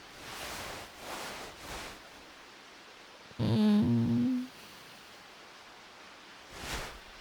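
A woman's drowsy closed-mouth hum, about a second long and the loudest sound, halfway through, over a steady hiss of rain ambience; soft breathy swishes come before it and again near the end.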